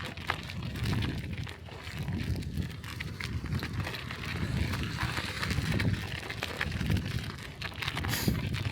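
Bicycle ridden over snowy streets: an uneven low rumble of wind buffeting the microphone, with scattered clicks and crackles from the tyres and bike. A brief hiss comes near the end.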